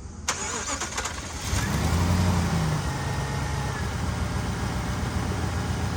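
Jeep engine started: the starter cranks briefly, the engine catches about a second and a half in, revs up for a moment, then settles into a steady idle. It is being run just after an oil change to circulate the fresh oil through the new filter before the level is rechecked.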